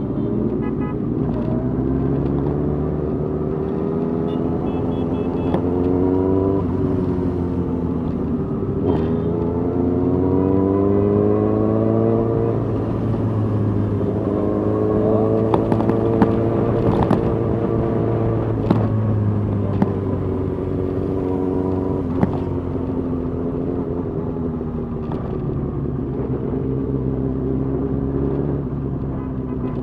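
Suzuki GSX-R 1000's inline-four engine pulling up through the gears at riding pace. Its pitch climbs in each gear and drops back at each shift, several times over.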